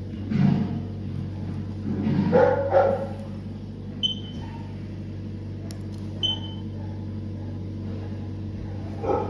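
A dog vocalising in a few short bursts, about half a second in, around two to three seconds in and near the end, over a steady low hum.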